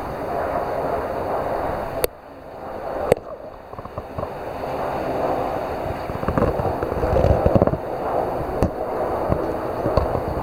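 Rough sea washing against the shore with wind gusting on the microphone after a typhoon. Two sharp clicks about two and three seconds in, with the sound briefly dropping away between them.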